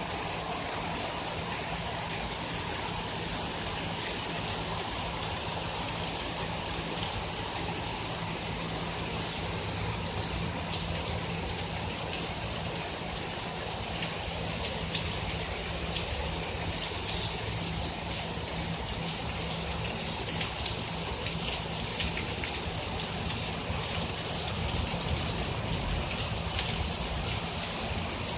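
Heavy rainstorm: a steady downpour with running, gushing water and many small drop hits.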